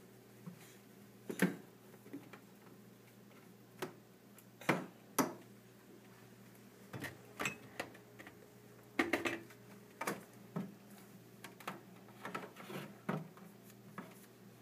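Bottles and food containers being picked up and set down on fridge shelves: irregular knocks and light clinks, loudest around a second and a half, five and nine seconds in, over a low steady hum.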